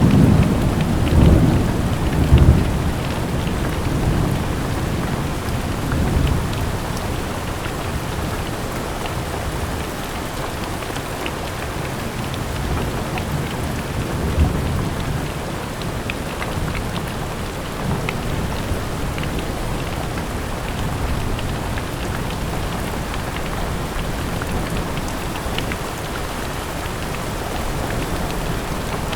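Steady light rain, with scattered single drops ticking throughout. A low rumble of thunder swells in the first couple of seconds and dies away.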